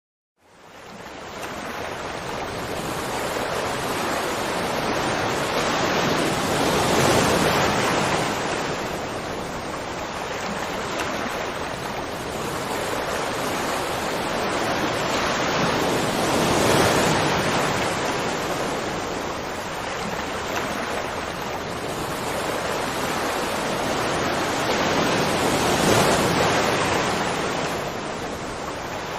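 Waterfall: a steady rush of falling water that fades in at the start, then swells and eases slowly, about every nine or ten seconds.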